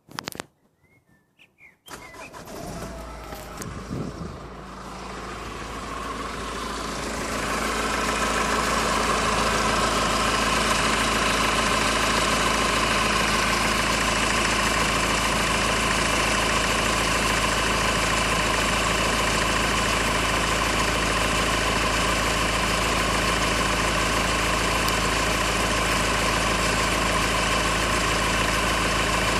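Honda Civic running with a steady whirring noise. It starts suddenly about two seconds in, a few clicks before it, and grows louder over the next several seconds before holding steady.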